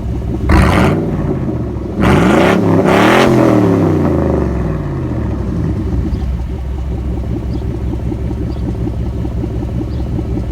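1996 Chevy Silverado C1500 V8 idling through a straight-piped, muffler-delete exhaust with side exit tips. It gives a quick blip of the throttle about half a second in, then a longer rev a couple of seconds in that climbs and falls back to idle. The exhaust note is crisp and defined.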